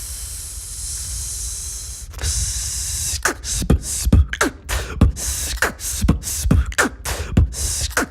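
Vocal beatboxing: a steady breathy hiss for about the first two seconds, then a beat of mouth-made kick thumps and sharp snare-like clicks with short falling pitched sweeps, about two to three hits a second.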